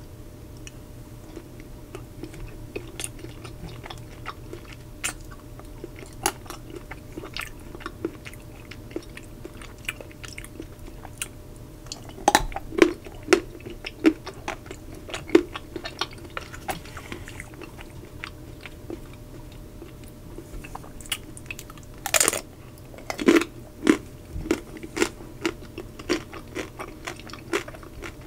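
Close-miked biting, cracking and chewing of the hard chocolate coating of Magnum Double Caramel ice cream bars and a chocolate-shelled ice cream block. Irregular sharp crunches of the shell are heard throughout, coming loudest in clusters about twelve seconds in and again about twenty-two seconds in.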